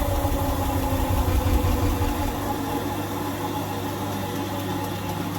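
Indesit 1400-spin washing machine's drum and permanent-magnet motor freewheeling down after a spin, with power cut to the motor. A low rumble stops about two seconds in, leaving a steady hum and a faint whirr that the owner takes for back EMF from the motor acting as a generator.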